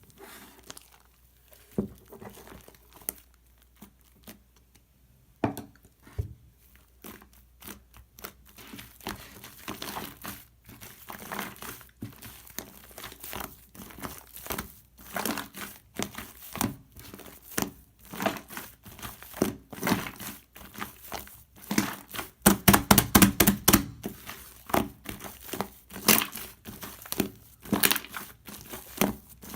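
Shaving-foam slime being squeezed and worked by hand, giving crackling clicks and pops. These are sparse at first and grow denser, with a quick, loud run of them about three quarters of the way through.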